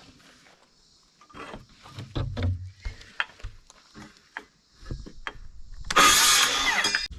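Knocks and thumps of a plywood siding panel being handled and slid down into place, then a loud harsh rushing noise about six seconds in that lasts just over a second.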